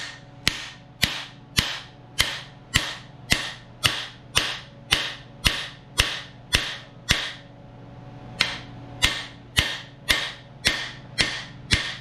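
Hammer striking a cam bearing installer tool, about two sharp ringing metal blows a second, driving a new camshaft bearing into the bore of a 350 small-block Chevy block. The blows pause briefly about seven seconds in, then resume.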